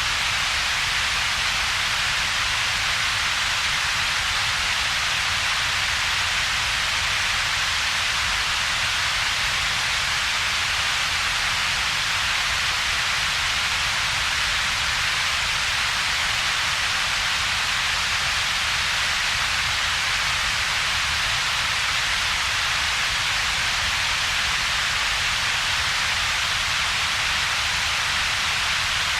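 Synthetic steady noise whose power has two peaks: a bright hiss centred around 2 to 4 kHz and a weaker low rumble below about 200 Hz, with a gap in between. It does not change at all.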